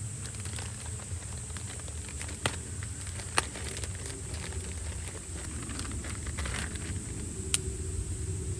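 Wood fire crackling, with scattered small snaps and three sharp pops, over a steady low rumble.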